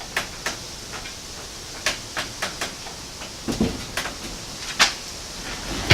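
Model A truck cab handled on a cherry picker (engine hoist) as it is lowered and set down: a string of separate sharp clicks and knocks, with a duller thump about three and a half seconds in and a louder knock near five seconds.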